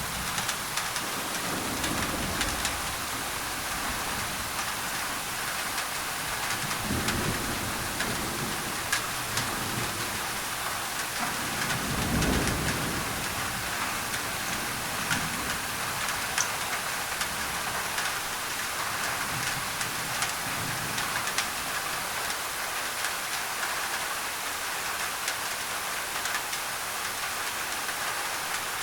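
Steady rain falling on a thin tin roof, with many small drop ticks, mixed with an even white-noise hiss. Low thunder rumbles swell several times, the strongest about twelve seconds in.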